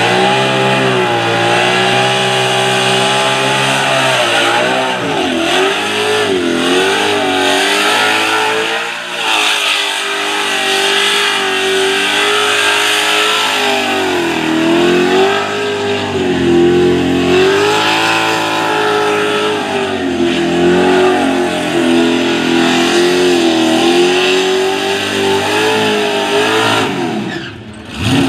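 Supercharged burnout car at high revs, spinning its rear tyres. The engine note rises and falls as the throttle is worked. Near the end the revs drop away sharply, then pick up again.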